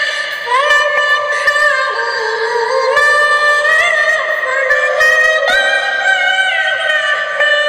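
Music with a pitch-shifted, high, chipmunk-like singing voice carrying a melody of held and gliding notes, with almost nothing in the low range.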